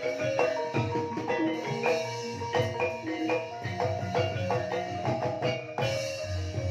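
Gamelan ensemble playing a Banyumasan gending in ebeg style: a steady run of struck, ringing mallet notes over low drum strokes.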